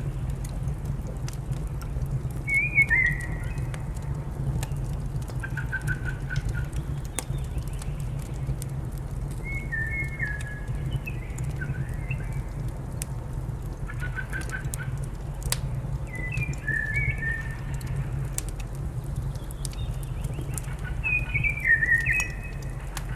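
Wood fire crackling with scattered sharp pops over a steady low rumble, while a songbird sings short phrases of a few quick notes every few seconds.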